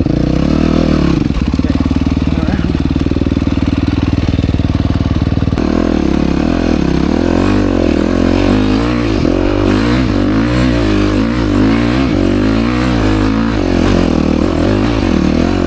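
Yamaha YZ250F four-stroke single-cylinder dirt bike engine running at a steady pitch, then from about five seconds in revving up and down over and over as the throttle is worked.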